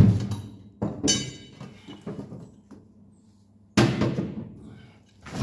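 Three metal clanks from handling tools and mower-deck parts: a sharp knock at the start, another about a second in that rings briefly, and a louder one near four seconds in that dies away.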